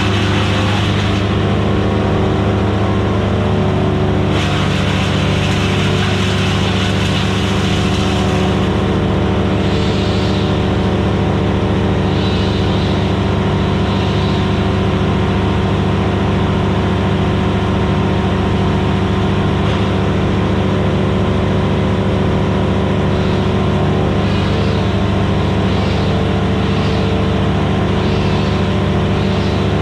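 Vermeer BC1000XL gas wood chipper running steadily at full speed, its engine note constant, with a hissing rush over the top that swells and fades several times.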